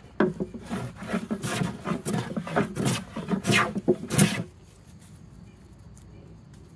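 Stanley No. 5 jack plane taking a quick series of short strokes across a wooden board, a shaving swish about three times a second. The strokes stop about four and a half seconds in.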